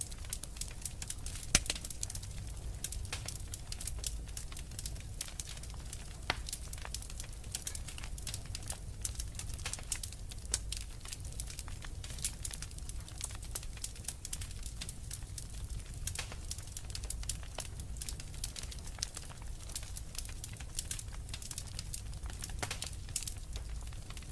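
Wood fire crackling in a fireplace: a constant scatter of sharp irregular pops and snaps over a steady low rumble, with one louder pop about one and a half seconds in.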